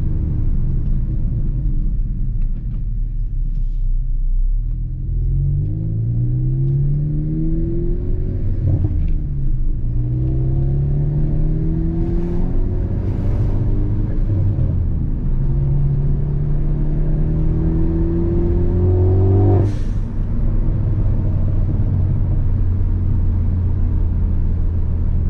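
Ford Focus ST's turbocharged four-cylinder through a Borla cat-back exhaust, heard from the cabin with the windows down, pulling through the gears: the pitch rises in several pulls with gear changes between. The last pull ends about twenty seconds in with a short sharp burst as the throttle closes.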